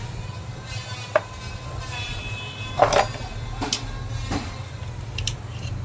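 Metal hand tools knocking and clinking against motorcycle engine parts during disassembly: a handful of separate knocks, the loudest about three seconds in, over a steady low hum.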